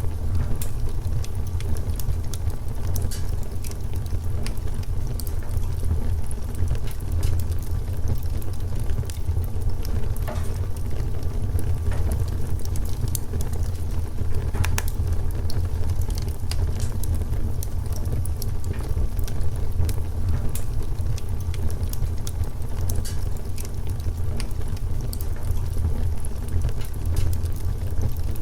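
Wood fire crackling: many small, sharp, irregular pops over a steady low rumble.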